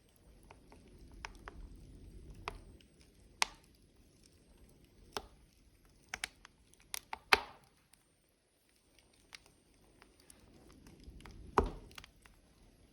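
Logs burning in a wood fire, crackling with scattered sharp pops and snaps. The loudest pops come about seven seconds in and near the end, over a soft low rush of flame that swells twice.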